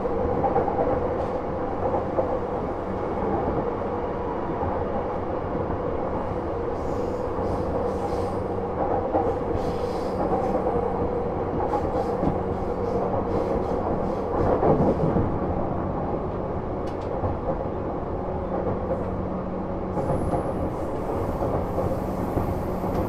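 JR East Series E235 electric train heard from inside a motor car (Mitsubishi SiC-MOSFET VVVF) running between stations. A steady rumble of wheels on rail carries a low hum, with scattered clicks from the track and a brief louder swell about 15 seconds in.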